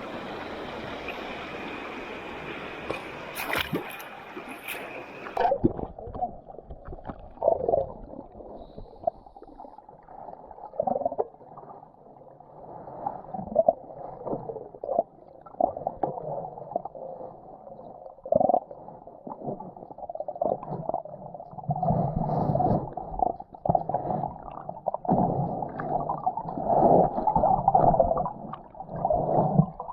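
River water: a steady rush of flowing stream for the first five seconds, then the sound turns dull and muffled, with irregular gurgling and knocks from water moving and splashing.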